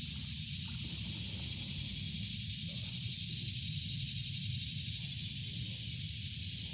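Steady outdoor ambience on a forest creek: an even, high hiss over a low rumble, with no distinct events.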